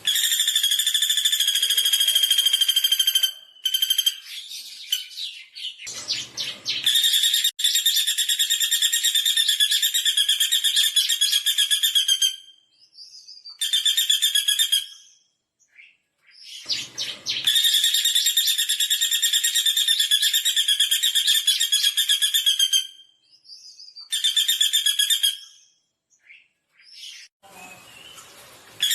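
Pelatuk bawang woodpecker calling in long, fast, high rattling phrases, several seconds each, repeated with short pauses between them.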